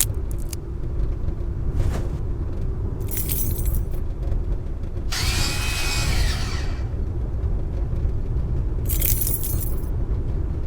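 Steady low rumble of a moving bus heard from inside, with three short bursts of high rattling or jangling noise, the longest about halfway through.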